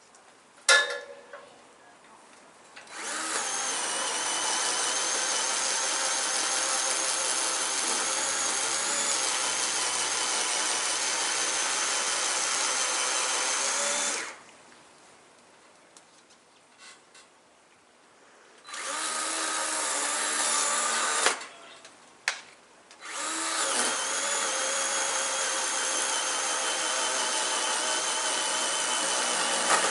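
Chainsaw cutting into a thick tree limb in three runs at a steady pitch: a long cut of about eleven seconds, a short burst, then another long cut near the end, with pauses between. A short sharp sound comes just before the first run.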